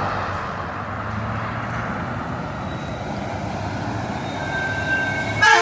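Heavy truck driving past with engine and tyre noise, a steady rumble that builds to a brief louder sound near the end.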